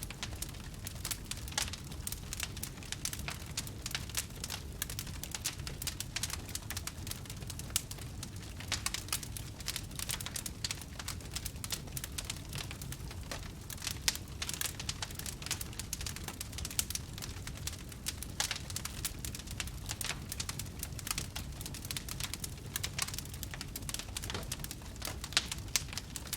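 Wood fire crackling: a dense, irregular run of small sharp pops and snaps over a low steady rumble.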